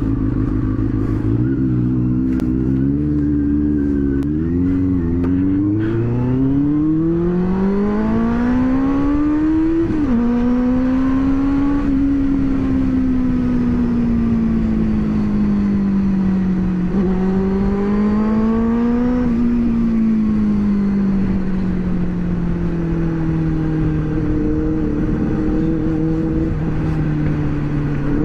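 Benelli motorcycle's engine and exhaust on the move. The revs climb steadily from about 4 to 10 seconds in and drop sharply at a gear change. They then rise and fall gently as the bike cruises and eases off, and pick up again near the end.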